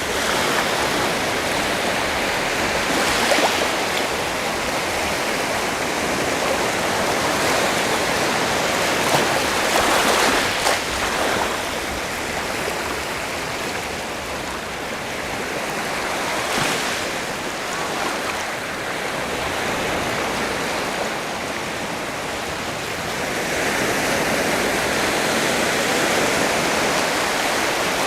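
Sea surf washing continuously on the shore, with a wave swelling louder every several seconds.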